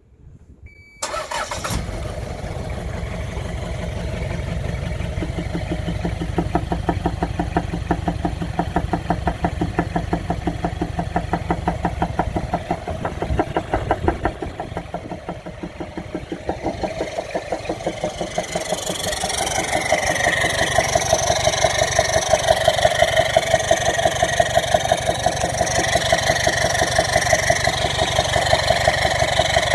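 Toyota Land Cruiser 2L-TE four-cylinder turbo diesel starting about a second in and running with a rhythmic weird popping from the exhaust, getting louder and brighter past the halfway mark. The engine runs rough, from a blocked vacuum line.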